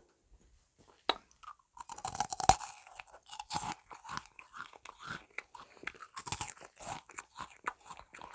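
Crisp meringue cookie bitten with a loud crunch about two seconds in, then chewed with many short, dry crunches.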